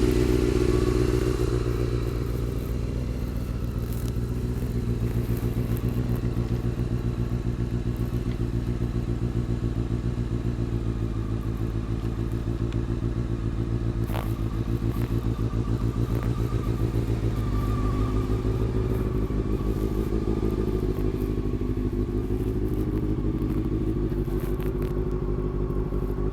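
2002 Honda CBR600 F4i's inline-four engine idling steadily through its Two Brothers aftermarket exhaust.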